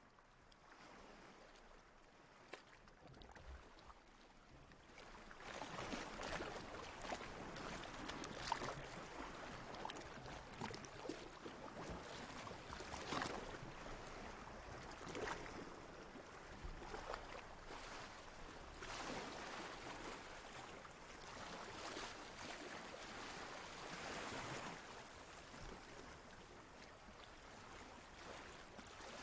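Water lapping and sloshing in irregular surges every two or three seconds. It is faint at first and louder from about five seconds in.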